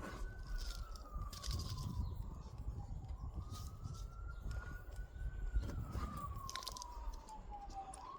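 Emergency-vehicle siren wailing, each cycle rising quickly, holding, then sliding slowly down in pitch, a little over two cycles. Small clicks and crunches from close by.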